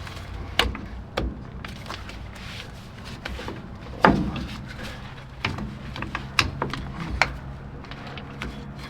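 Tools and metal brake parts clicking and knocking during hands-on work on a truck's rear brake: several sharp clinks, with one heavier knock about four seconds in.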